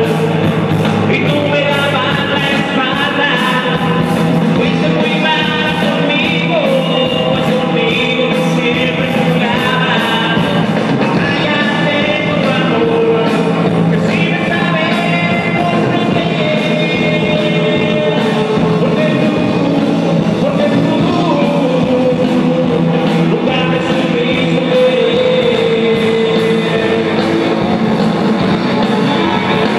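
Live rock band playing a song with a singer over a steady drum beat, loud and continuous.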